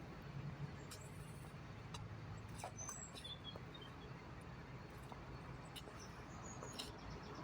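Faint outdoor ambience: a steady low rumble of road traffic, with small birds chirping now and then and a few light clicks.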